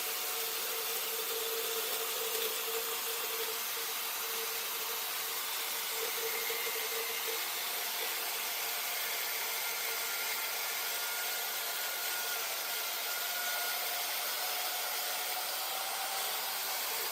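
Large wood lathe running: a steady hiss with faint whining tones, the lowest of which fades out partway through.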